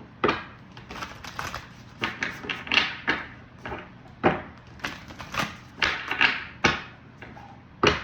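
Tarot cards being handled on a table: an irregular run of sharp card taps and slaps, one or two a second, as cards are flipped and laid down.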